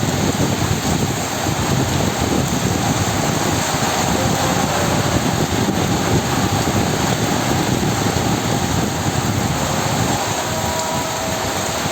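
Heavy tropical rain pouring down, a dense, steady hiss of a downpour that does not let up.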